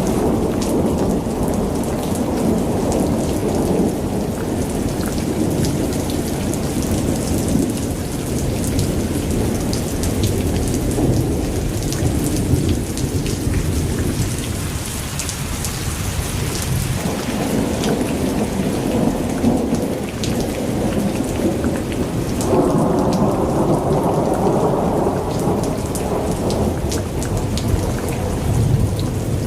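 Rain falling with a continuous low rumble of thunder and sharp drop ticks on top. The rumble eases off about halfway through and swells again in the last third.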